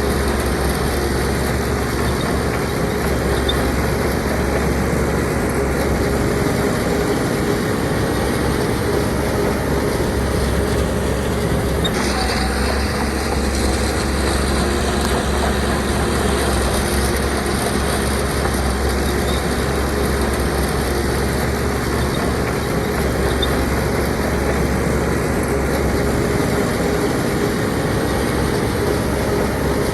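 Heavy diesel earthmoving machinery running steadily under work, with a change in the engine note about twelve seconds in.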